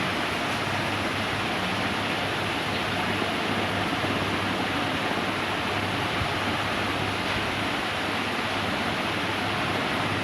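Ceiling fan running steadily: an even rush of moving air with a faint low motor hum underneath.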